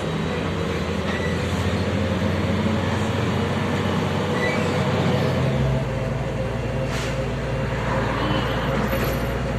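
Inside a MAZ-105 articulated city bus under way: the diesel engine runs steadily under road and cabin rumble. Its low note changes about halfway through, and there are a few faint knocks near the end.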